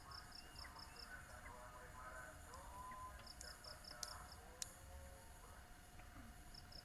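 Faint rural bird chorus: zebra doves (perkutut) cooing among chirping small birds. A rapid series of high, even pulses, about seven a second, sounds at the start and again about three seconds in, with two sharp ticks near the middle.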